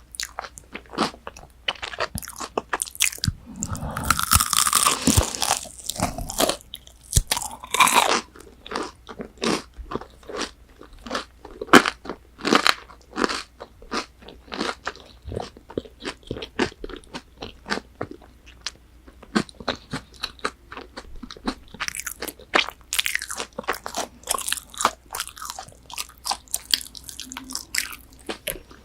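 Close-miked biting and chewing of crispy fried chicken nuggets: a rapid run of crisp crunches, with a denser, louder stretch of crunching about four to six seconds in.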